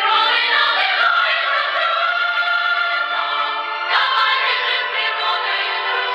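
Music with choral singing: several voices holding and gliding through notes together.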